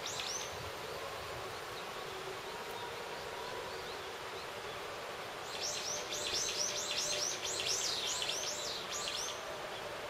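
A bird singing a rapid run of high, quickly sliding chirps from about halfway through until near the end, with one short chirp at the very start, over a steady background hiss.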